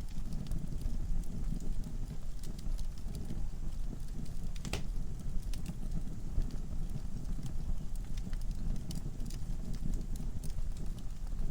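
Wood fire burning in a fireplace: a steady low rush of flames with scattered crackles and pops from the logs, one sharper pop a little under five seconds in.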